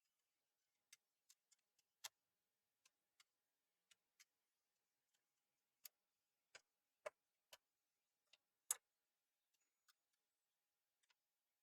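Faint, irregular small clicks and taps of tools and small parts being handled inside an opened PlayStation 4 Slim, about twenty in all, with the loudest two coming about seven and nine seconds in.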